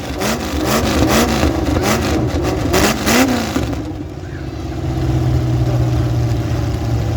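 Demolition derby car engines revving hard, their pitch rising and falling about twice a second, with sharp bangs mixed in. About four seconds in, the revving dies away to a steady engine drone.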